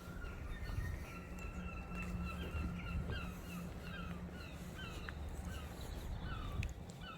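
A bird calling: one steady held note about a second in, then a run of short, falling notes, about two to three a second. A low rumble runs underneath.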